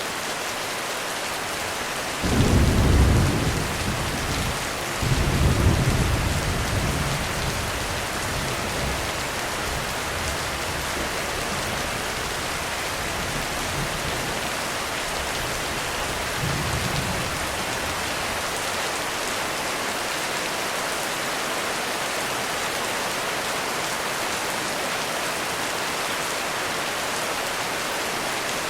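Heavy rain falling steadily, with rolling thunder rumbling about two seconds in, again a few seconds later, and more faintly near the middle.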